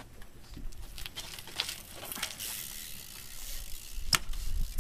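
BMX bike tyres and shoes scuffing and swishing on concrete during a flatland trick, with one sharp pop about four seconds in. A low rumble comes in near the end.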